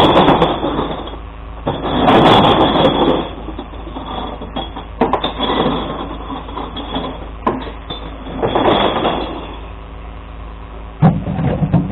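Glass-collection truck's engine running steadily, with several loud, noisy bursts of about a second each and a short low thud near the end.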